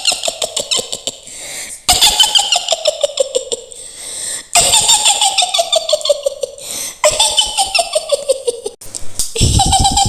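A witch's shrill cackling laugh, Mak Lampir's "hihihi", repeated in fast pulsing runs. Each run falls in pitch, and a new one starts about every two and a half seconds.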